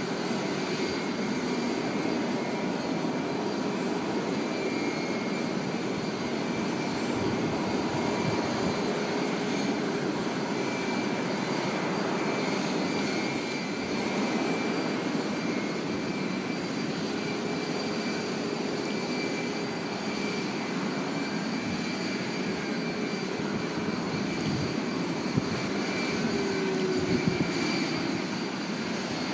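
Airliner engines running steadily at an airport, an even rush with a high steady whine, holding at constant power with no build-up.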